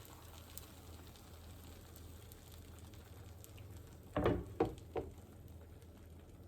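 Beaten egg cooking as a thin omelette in a frying pan, sizzling faintly, with three quick knocks of a utensil against the pan a little past the middle.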